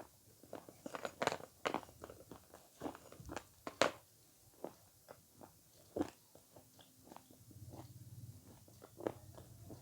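Close-miked mouth sounds of someone biting and chewing avocado: irregular wet clicks and crackles, busiest in the first four seconds and sparser after. A faint low hum comes in for the last couple of seconds.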